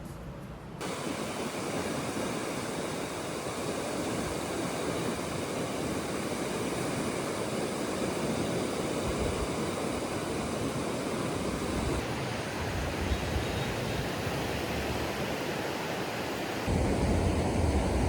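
Steady rushing noise of ocean surf mixed with wind. The sound shifts abruptly about twelve seconds in and again near the end.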